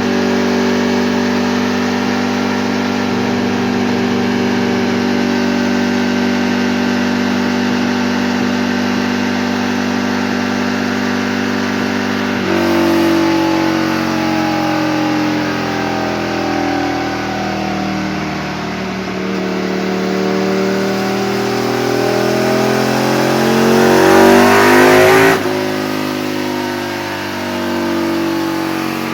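Aprilia RSV 1000 R Tuono's V-twin engine with a LeoVince exhaust, running on a dyno: it holds a steady speed for about twelve seconds, then the pitch dips and climbs in one long pull up the revs, and it cuts off sharply near the end.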